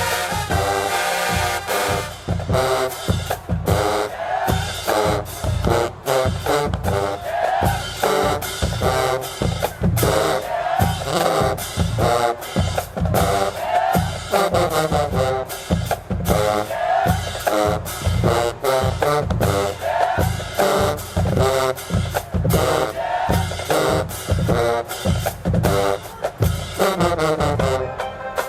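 HBCU marching band playing: brass horns with sliding, swelling notes over a drumline of snare and bass drums keeping a fast, driving beat.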